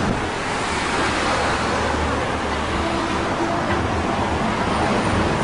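Steady outdoor street noise: a low traffic rumble with an even rushing hiss, partly wind on the microphone.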